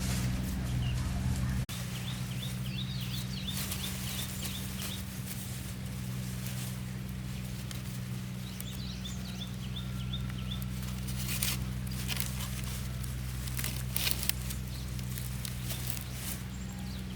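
Birds chirping outdoors, two quick runs of short high chirps, with a few sharp knocks and a steady low hum underneath.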